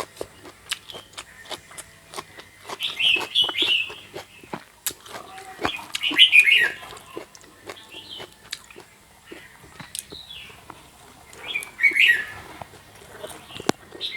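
Birds chirping in loud bursts three times: a few seconds in, near the middle, and near the end. Many short sharp clicks and crunches run underneath.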